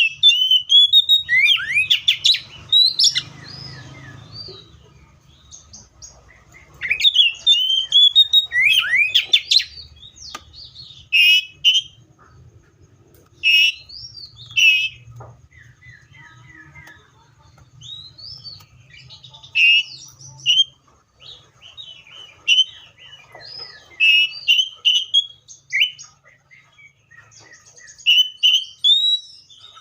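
Magpie-robin singing: bursts of loud, quick whistled phrases with sweeping notes and chatters, broken by short pauses.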